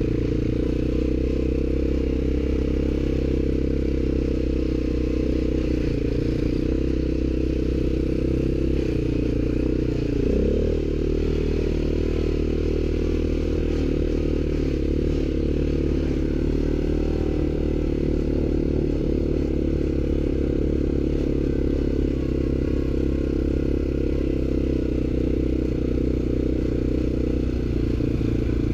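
ATV engine running steadily under way, with a brief dip and rise in engine pitch about ten seconds in.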